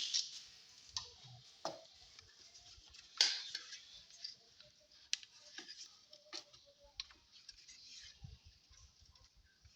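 Scattered light clicks and knocks, about eight separate ones, the loudest about three seconds in: small objects or tools being handled.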